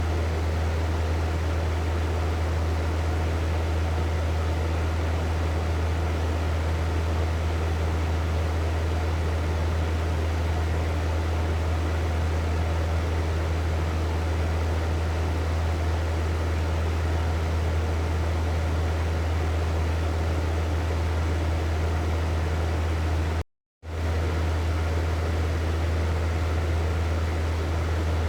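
Hair dryer running steadily: a constant rush of blown air over a strong low motor hum. It cuts out completely for a fraction of a second about three-quarters of the way through, then carries on unchanged.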